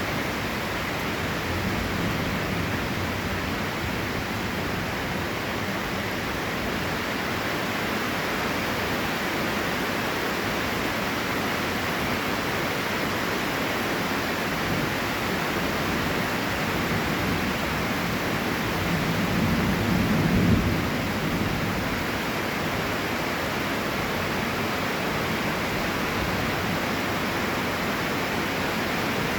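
Heavy rain falling in a steady hiss. About two-thirds of the way through, a short low rumble swells up and fades over a couple of seconds.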